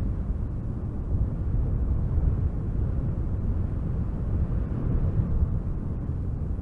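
Strong wind gusting through spruce trees, a steady low rumble that swells and eases slightly.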